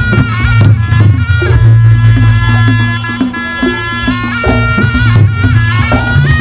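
Loud Reog Ponorogo gamelan music: a slompret shawm plays a held, sliding melody over kendang drums and a steady low gong drone.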